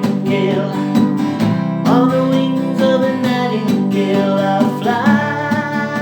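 Acoustic guitar strummed through sustained chords, changing every second or two, in a song's closing bars.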